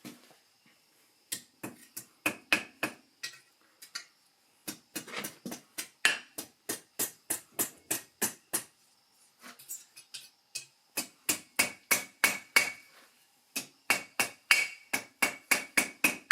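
Hand hammer forging hot steel bar on an anvil: runs of quick blows, about three a second, broken by short pauses, with the metal ringing after some strikes.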